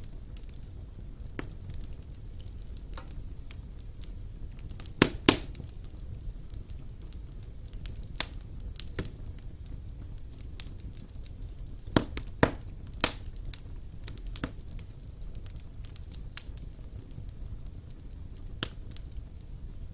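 Wood fire burning in a fireplace: a steady low rumble of flames with scattered sharp crackles and pops, the loudest a quick pair about five seconds in and a few more around twelve seconds.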